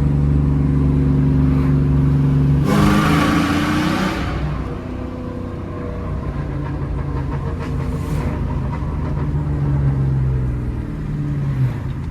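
Straight-piped 4.6-litre two-valve V8 of a New Edge Ford Mustang GT, heard from the moving car: it runs steadily, then about three seconds in revs up with a loud raspy blast for over a second, drops back and settles to a lower steady cruise. The exhaust has a leak that the owner says he needs to fix.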